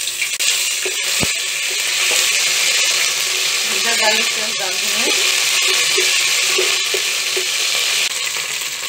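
A spoonful of paste sizzling steadily in hot ghee in a steel pot while being stirred with a wooden spoon, with a sharp knock about a second in.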